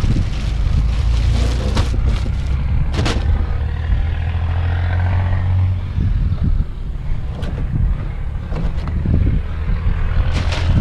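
A motor running with a steady low hum, with a few short knocks and clicks over it.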